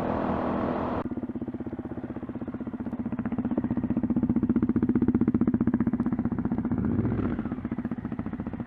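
Adventure motorcycle engine running on the move, its rapid exhaust pulses building over a few seconds and then easing off.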